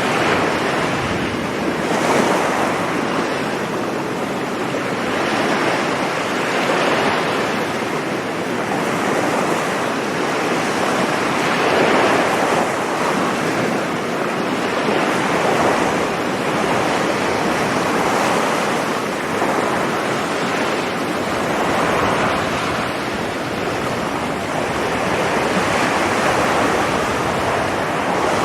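Sea surf breaking continuously on a sandy beach, swelling and easing every few seconds as waves come in, with some wind on the microphone.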